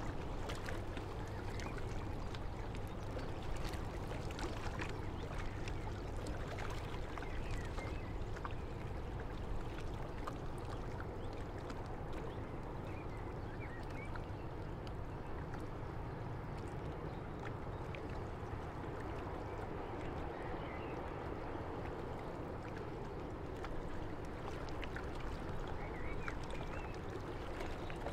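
Water lapping and splashing against a river breakwater over the steady low hum of a passing ship's engine, with faint short calls of water birds a few times.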